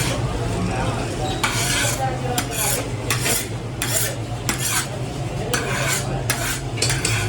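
Irregular gritty scraping strokes, roughly one or two a second, of a metal scoop stirring hot sand in a wide roasting pan, over a steady low hum.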